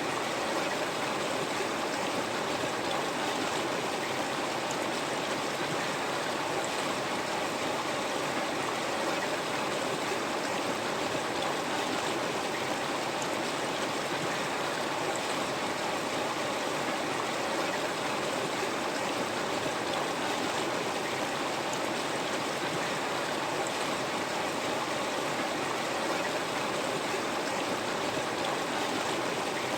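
River water flowing steadily, an even rushing and babbling that stays constant throughout.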